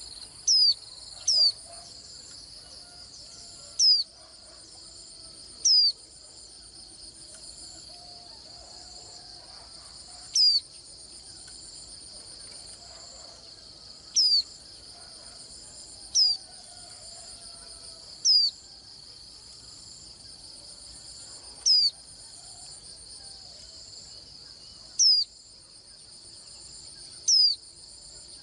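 White-eye giving short, sharp, high-pitched single call notes, about eleven of them spaced irregularly every two to four seconds. Behind them runs a steady, high, finely pulsing insect trill, like crickets.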